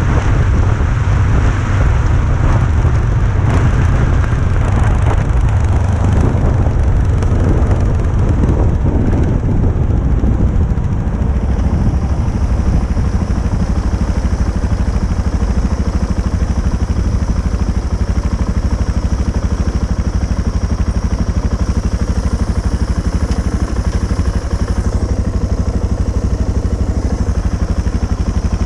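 Motorcycle engine running with a loud, steady low rumble and rough, distorted noise over it, harsher for the first dozen seconds before settling.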